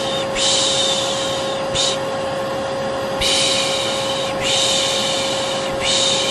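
A vacuum cleaner running steadily with a constant hum, while a person softly shushes over it ('shh, shh') to lull a baby to sleep: about five shushes, mostly a second or so long with one short one, in an uneven rhythm.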